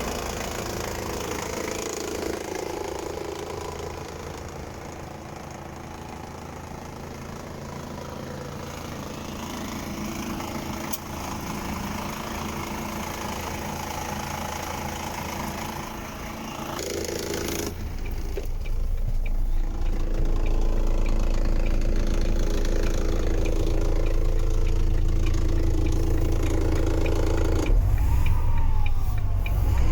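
Volvo FE 250.18 truck's diesel engine running at idle. It grows louder and deeper about two-thirds of the way through, after an abrupt change in sound.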